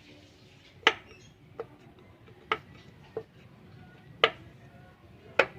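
Sharp metallic clacks of a slapping piston, six of them at roughly one a second, louder and softer strokes alternating, over a faint low hum.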